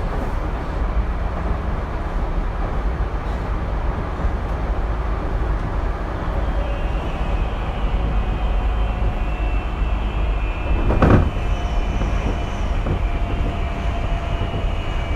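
Tokyu 2020 series electric train running, heard from inside the car: a steady rumble of wheels on rail. A faint steady whine from the drive comes in about halfway through. A single sharp knock sounds about eleven seconds in.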